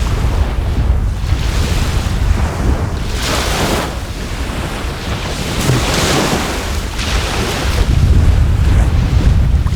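Sea waves washing onto the shore, swelling twice, with wind buffeting the microphone in a steady low rumble.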